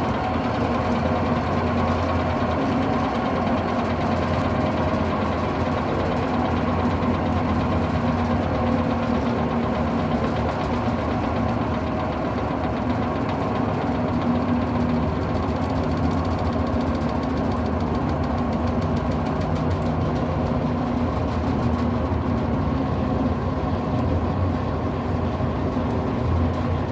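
Electrolux Turbo LM08 top-loading washing machine spinning its load at a reduced speed: a steady motor-and-drum hum with a low rumble.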